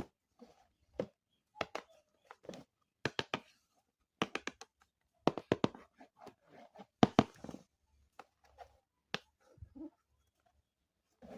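Hands handling small hard objects: a run of irregular clicks, taps and knocks, loudest in clusters about halfway and two-thirds of the way through.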